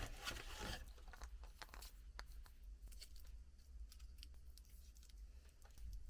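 Surprise toy packaging being torn open by hand: a short tearing rustle in the first second, then faint crinkling and small clicks as the wrapper and its contents are handled.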